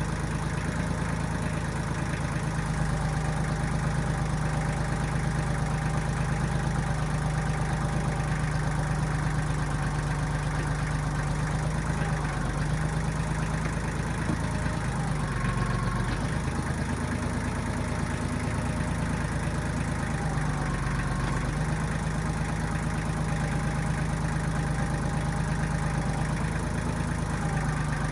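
Diesel engine of a 1995 Kubota backhoe running steadily, its pitch dipping and wavering for a couple of seconds around the middle before it settles back.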